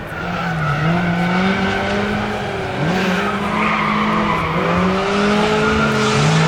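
Rally car engine under hard driving, its pitch dipping and snapping back up about four times as the driver comes off and back on the throttle.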